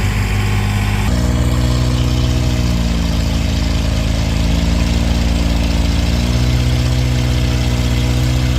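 Antique farm tractor's engine running hard under load as it pulls the weight-transfer sled down the track. The engine note steps up about a second in and then holds steady.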